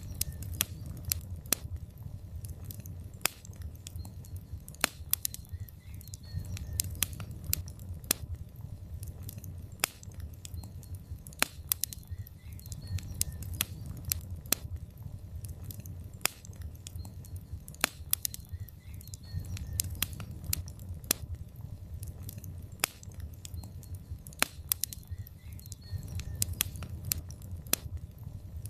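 Logs burning in a fireplace: irregular sharp crackles and pops over a steady low rumble of the fire.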